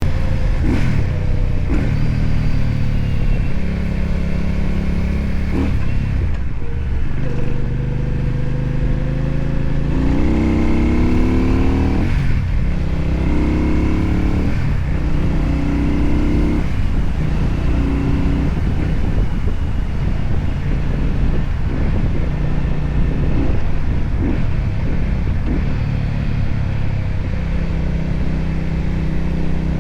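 Benda Napoleon 500 motorcycle engine under way, its pitch climbing as it revs and dropping briefly at each gear change, with the steepest run-up about ten to twelve seconds in.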